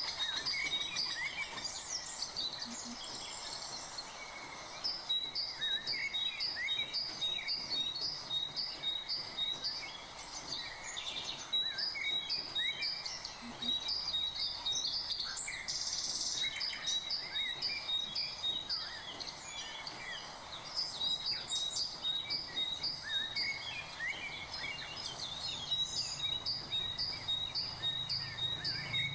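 Birds chirping and singing, several calls overlapping, with one bird repeating a short high note at an even pace, about two to three times a second, in long runs.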